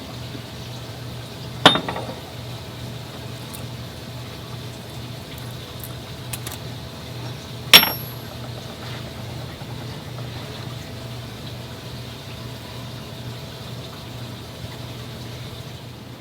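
Two sharp metallic clinks, about six seconds apart, over a steady low workshop hum.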